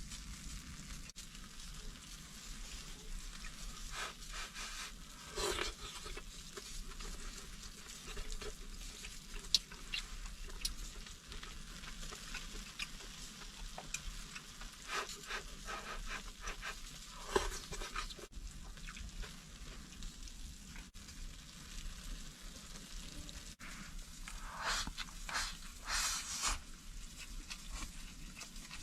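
Food sizzling in a hot pan, a steady hiss broken by a few louder bursts of noise: once early, a couple in the middle, and a cluster near the end.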